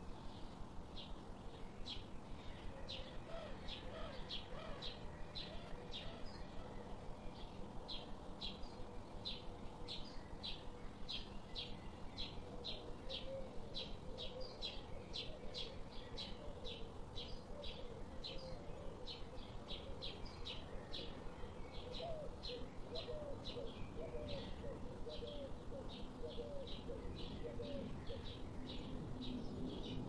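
Birds calling: a short high chirp repeated evenly about twice a second throughout, with lower wavering calls now and then.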